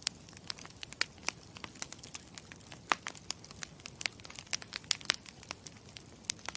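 Campfire crackling: many sharp, irregular pops and snaps over a soft steady hiss, with the loudest snaps about three and five seconds in.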